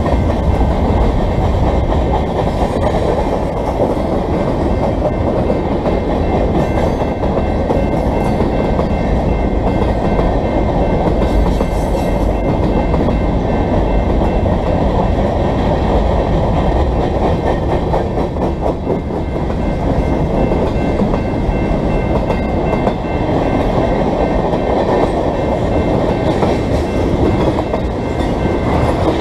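Freight train rolling steadily past, its covered hoppers, boxcars and tank cars rumbling and the wheels clicking over the rail joints.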